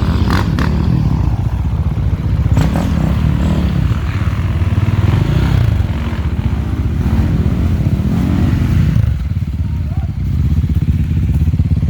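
Off-road enduro motorcycle engine revving, the pitch rising and falling in several surges as the bike works along the trail, with a few short knocks early on.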